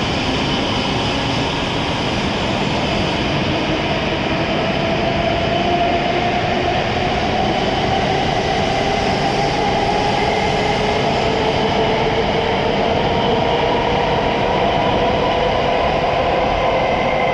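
E7-series Shinkansen train accelerating away, a loud steady rumble with a motor whine that rises slowly in pitch as it gathers speed.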